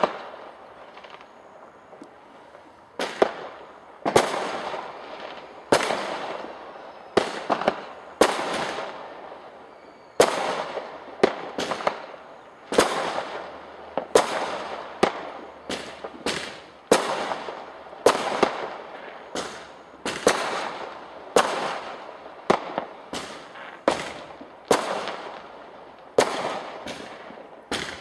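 Fireworks bursting in the sky: a run of sharp bangs, about one a second from about three seconds in, each trailing off in an echo.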